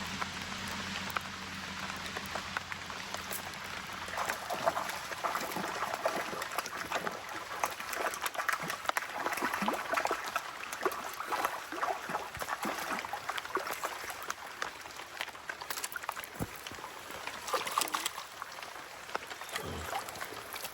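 Creek water trickling and splashing, with many small irregular clicks and spatters. A low steady hum fades out about three seconds in.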